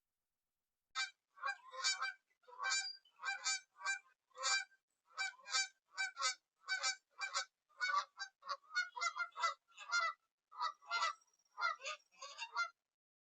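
A bird calling over and over, about two short honking calls a second, starting about a second in and stopping shortly before the end.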